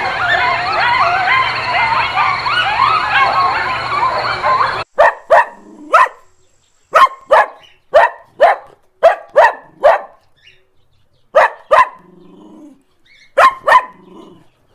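A dense chorus of many overlapping high-pitched calls, then, after an abrupt cut about five seconds in, a dog barking: about fourteen short, sharp barks, often in quick pairs, with pauses between.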